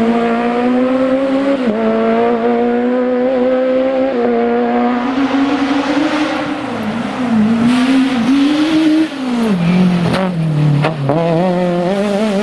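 Citroën Saxo Kit Car rally car's four-cylinder engine running hard at high revs, with brief dips in pitch at gear changes. Past the middle the note wavers, then drops sharply as the revs fall, and climbs again near the end.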